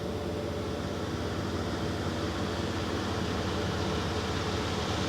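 Steady engine hum and road noise of a moving car, heard from inside the cabin.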